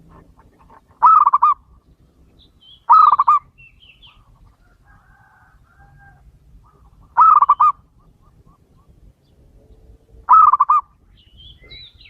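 Male zebra dove (perkutut) cooing: four short, rapidly trilled coos, each about half a second long and spaced a few seconds apart. Faint high chirps sound between them.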